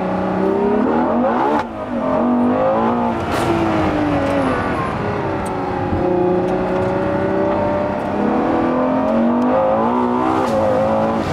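Ferrari Daytona SP3's 6.5-litre naturally aspirated V12 accelerating, its note climbing in pitch and cut twice by quick upshifts of the dual-clutch gearbox about one and a half and three seconds in, then running on at a steadier pitch.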